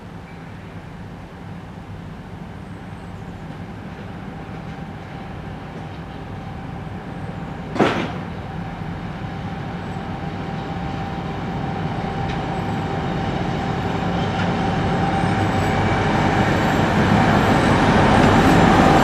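2M62 twin-unit diesel locomotive approaching, its low engine drone growing steadily louder. A single sharp clank comes about eight seconds in, and a thin steady whine carries on after it.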